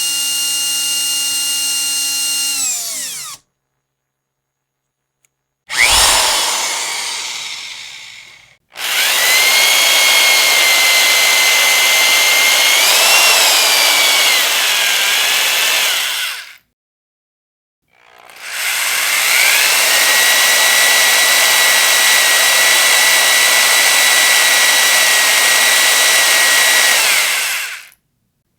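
Electric power drill running in bursts with short silences between them, a steady whine in each run. The pitch climbs as the motor spins up and sinks as it winds down, and one short burst fades away.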